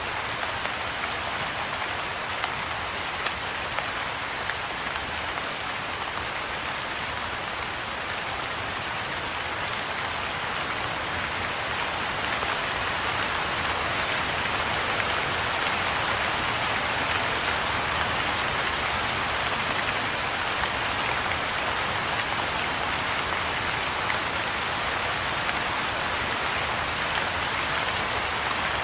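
Steady soft rain falling on a pond's surface and the grass around it: an even patter with scattered individual drops, growing a little heavier about twelve seconds in.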